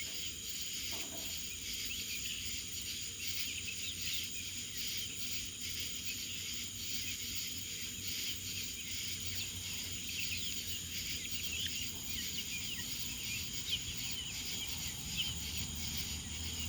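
Steady high-pitched drone of crickets or other insects, with many short, high bird chirps scattered through it.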